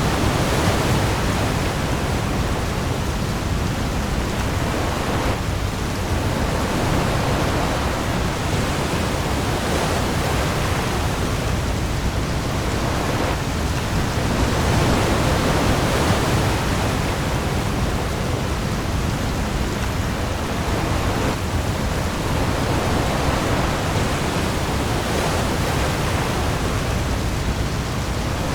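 Heavy rain falling on the open sea in a storm, a steady dense hiss with waves swelling and easing every few seconds, over a low rumble.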